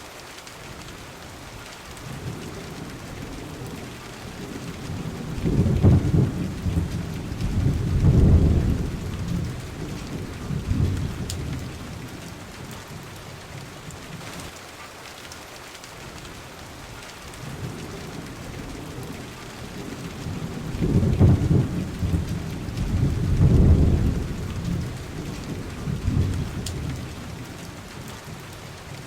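Steady rain with two long rolls of thunder. Each builds over a few seconds to two loud peaks, then rumbles away; the first comes a few seconds in and the second about two-thirds through.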